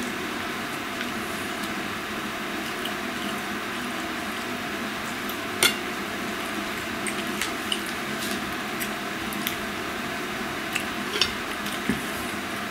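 Wet chewing and mouth sounds of someone eating meat, with scattered small clicks and taps of cutlery or dishes, the sharpest about halfway through, over a steady background hiss.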